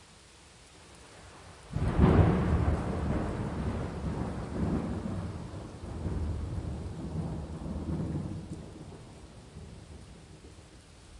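Thunderclap over steady rain: a sudden loud crack a couple of seconds in, then a long rolling rumble that swells again a few times and slowly fades.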